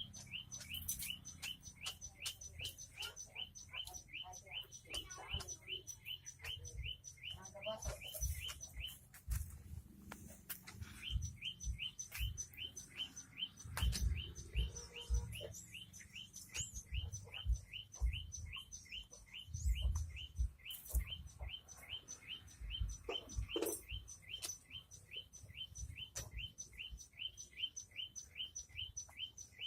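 A small bird chirping over and over in an even rhythm, about three short chirps a second, with a break of a couple of seconds about a third of the way in. Dull low thumps and knocks come and go underneath, the loudest about halfway through.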